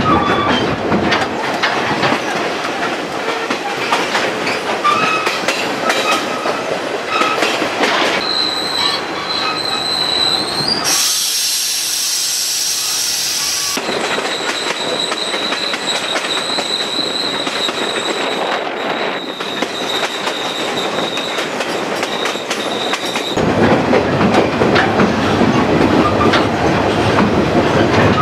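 Chihuahua-Pacific passenger train running on the rails, heard from aboard: steady rumbling noise with rail joints clicking, and a high steady wheel squeal that comes and goes through the middle as it takes curves. A short stretch of bright hiss cuts in about halfway.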